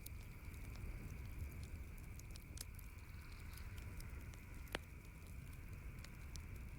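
Campfire crackling: scattered small pops and ticks, with one louder snap about two-thirds of the way through, over a faint steady hiss and low rumble.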